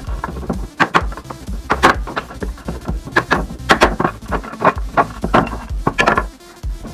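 Irregular sharp knocks on wood, hammer blows about once a second with some in quick pairs, over background music.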